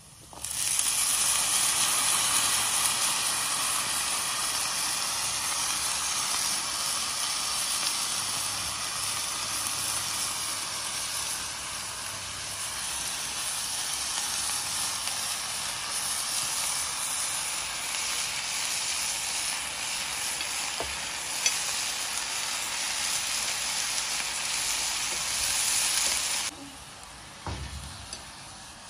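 Chopped vegetables frying in hot oil in an iron kadai, a loud steady sizzle. It cuts off suddenly near the end, leaving a fainter sizzle with a knock or two as a steel ladle stirs the pan.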